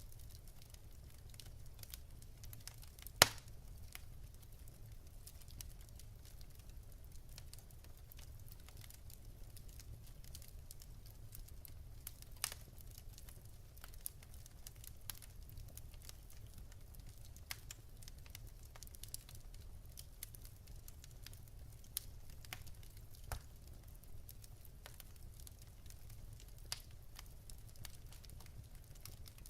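Wood fire burning in a fireplace, crackling with scattered small pops and one sharp, loud pop about three seconds in, over a low steady rumble.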